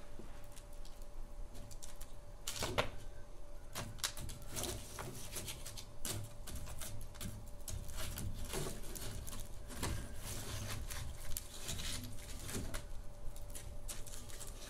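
Wood fire burning in a fireplace: irregular crackles and sharp pops from the log over a low rumble of the flames, with a faint steady hum underneath.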